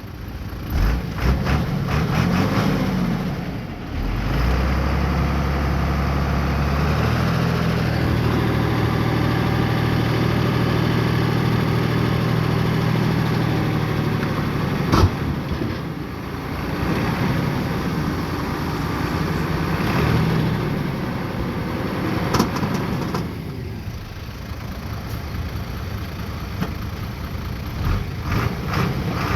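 Bulldozer's diesel engine running steadily, its pitch stepping up about four seconds in and again a few seconds later, then easing off, with a couple of sharp knocks partway through.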